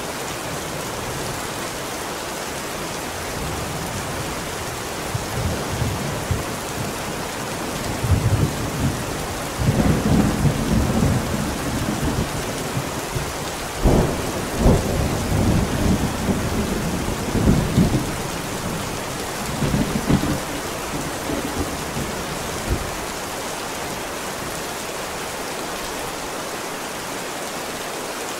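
Steady heavy rain with a long rolling peal of thunder that builds from about five seconds in, cracks and rumbles loudest in the middle, then fades out a little after twenty seconds.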